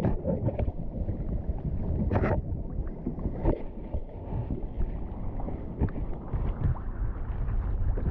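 Water sloshing around a kayak hull with wind buffeting the microphone, broken by a few sharp splashes or knocks, one about two seconds in and another about three and a half seconds in.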